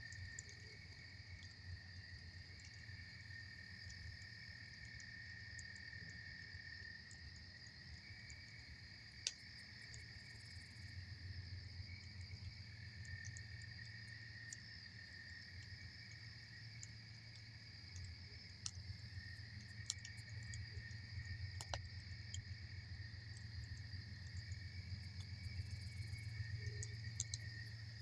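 Campfire crackling with scattered sharp pops, the loudest about nine seconds in and again near twenty-two seconds, over a steady high chorus of crickets and a low steady rumble.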